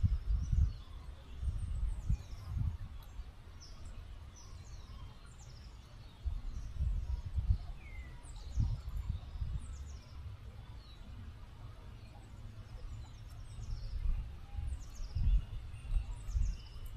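Small songbirds chirping many times with short, high, quickly falling notes, over an uneven low rumble.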